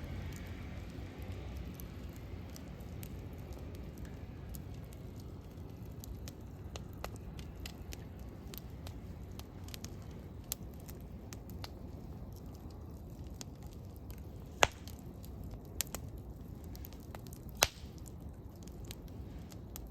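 Wood campfire burning: a low steady rumble with scattered small crackles, and two sharp louder pops in the second half.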